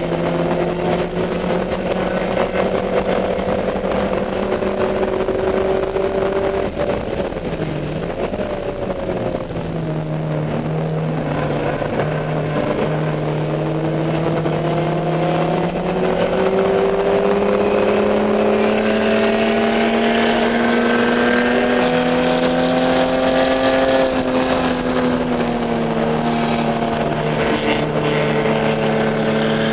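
Onboard sound of a Dodge Neon race car's four-cylinder engine at full race load. Its pitch drops about seven seconds in as the car slows for a corner, then climbs steadily for a long stretch under acceleration, and dips once more near the end.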